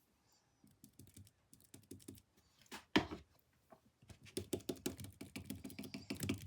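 A paintbrush repeatedly dabbing and slapping against a canvas to blend the paint. It starts as scattered light taps, then about four seconds in becomes a quick, growing run of taps, about five a second.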